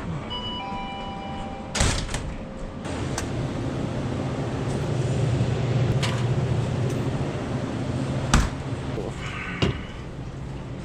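Short electronic beeps, then a car door thumping about two seconds in, with a low steady hum through the middle and another sharp door thump a little past eight seconds.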